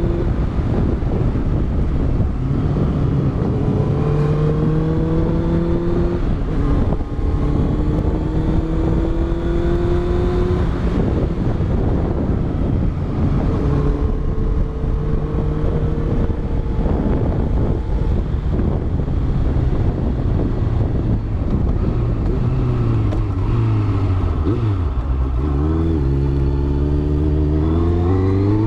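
Honda CBR650F inline-four motorcycle engine with a Yoshimura exhaust, heard from onboard, pulling up through the gears. The pitch rises in several steps with short breaks at the shifts, drops off around two-thirds of the way through, then revs up sharply near the end, over steady wind and road noise.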